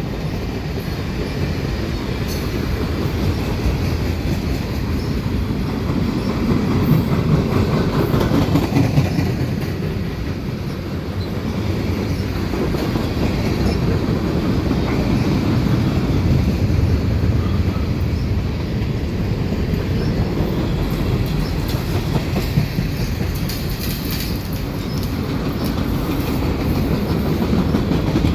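Old ballast hopper cars of a freight train rolling past slowly, with a steady rumble and clatter of steel wheels on the rails.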